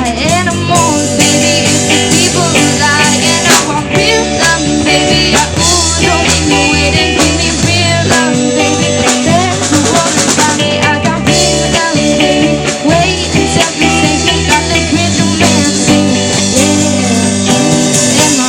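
A live rock band playing a stretch with no vocals, with a drum kit keeping the beat under guitars and bass.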